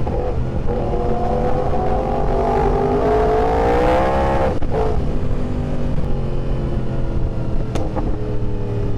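Yamaha R1's inline-four engine accelerating, its pitch rising for about four seconds before a sudden drop at an upshift, then running steadily at lower revs, with wind rushing over the microphone.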